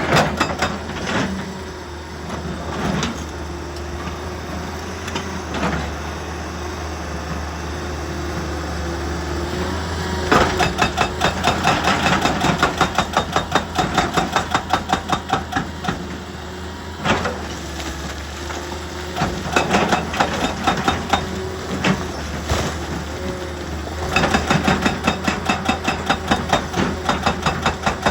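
Heavy excavator engine running steadily, with a held whine over it, while rapid, evenly spaced hammering blows come in three runs of several seconds each, starting about ten seconds in.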